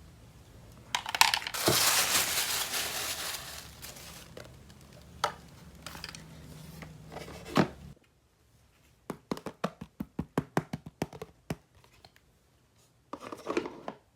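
Plastic toy packaging crinkling and tearing for a few seconds, then a quick run of light clicks and taps as small plastic toy pieces are handled, and a short rustle near the end.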